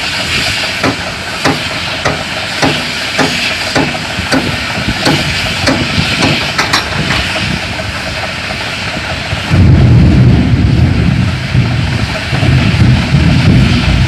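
Palm-oil truck unloading at a loading ramp: steady mechanical hiss with regular knocks a little under two a second, then from about ten seconds in a loud deep rumble as the load of oil-palm fruit bunches slides off the tipped truck bed.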